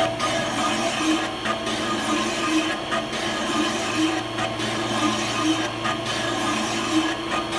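Metal lathe running, its cutting tool scraping across a spinning metal workpiece: a steady machine hum under a rasping cut that swells about every second and a half.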